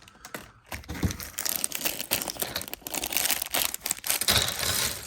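Thin plastic LEGO parts bags being crinkled, handled and torn open, with irregular crackling and small pieces rattling inside.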